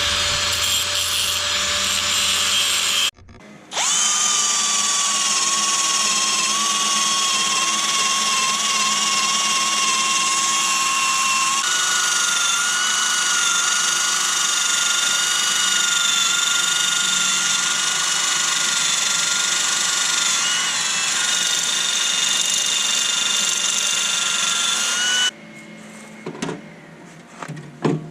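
Electric power tool running under load, cutting steel strip for gussets, with a steady whine over a hiss. It stops briefly about three seconds in and starts again. The whine steps up in pitch about a third of the way through, and the tool cuts off about three seconds before the end, leaving a few light knocks.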